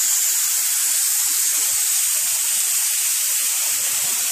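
Waterfall pouring, a steady, loud rushing hiss.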